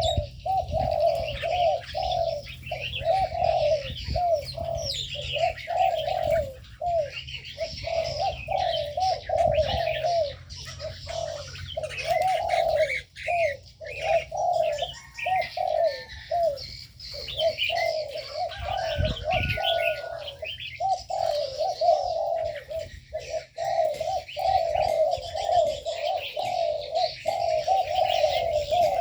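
Spotted doves in an aviary cooing over and over, several birds overlapping so the low coos run almost without a break. Smaller birds chirp and twitter at a higher pitch throughout.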